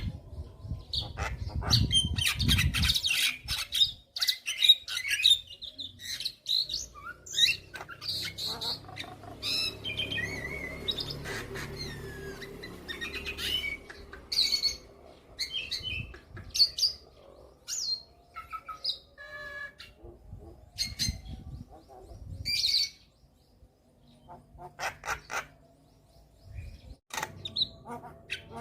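Javan myna (jalak kebo) singing a long, varied song of harsh chattering notes, squawks and whistled phrases, filled with mimicked calls. It thins out briefly near the end.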